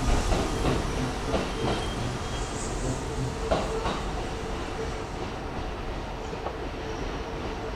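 Hanshin electric train running on the tracks, its wheels clacking over rail joints a few times in the first four seconds over a steady rumble. The sound slowly fades as the train moves away.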